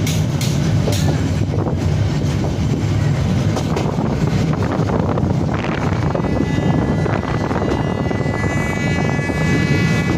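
Passenger train running along the track: a steady, loud rumble with wind noise. A few quick clicks come in the first second, and a steady high-pitched tone joins in about six seconds in.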